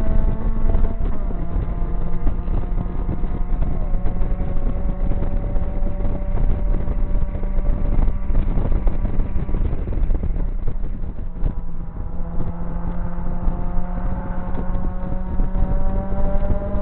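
Mazda MX-5 Mk1's 1.8-litre four-cylinder engine, with a full exhaust and no catalytic converter, pulling hard on track, heard from the open cockpit. The engine note climbs steadily through the revs in gear, eases off about twelve seconds in, then climbs again.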